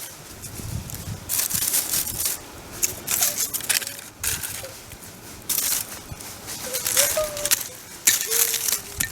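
Dry leaves and twigs crunching and rustling underfoot in a series of irregular steps on a wooded hillside.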